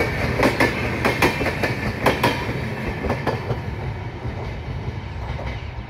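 Passenger coaches of an express train passing at speed, wheels clattering over the rail joints in a quick run of clicks over a low rumble. The clicks die away after about three seconds as the last coach draws off, leaving a fading rumble.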